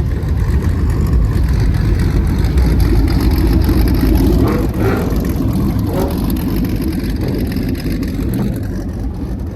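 Car engine running loud with a deep, steady rumble.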